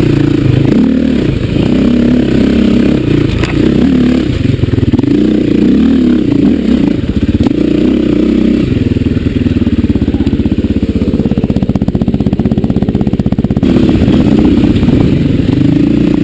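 Dirt-bike engine revving up and down under changing throttle, then holding a steady note for a few seconds before revving again near the end.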